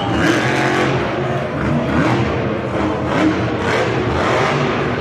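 Monster truck engine revving hard, its pitch rising and falling repeatedly.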